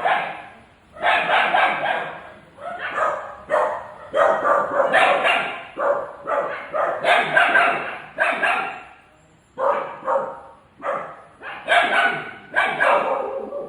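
A dog barking over and over in a run of separate barks, which stops abruptly near the end.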